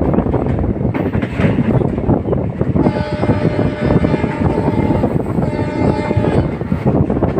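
Passenger train running with a heavy, steady rumble; the locomotive's horn sounds for about three seconds starting about three seconds in, and again near the end.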